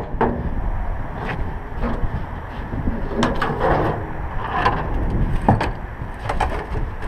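Wind rumbling on the microphone, with several sharp knocks and scrapes as a scrap gas pump is shifted on a trailer.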